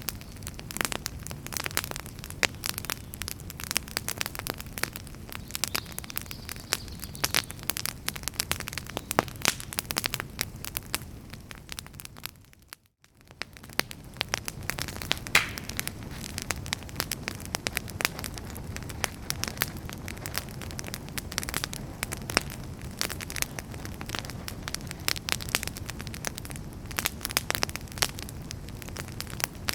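Wood fire in a fireplace crackling and popping, with many sharp snaps over a steady low rumble of the flames. Near the middle it fades out for about a second, then fades back in.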